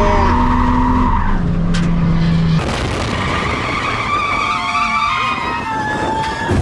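Drift car driven hard: the engine is held at high revs, then from about two and a half seconds in the tyres squeal and skid through a slide.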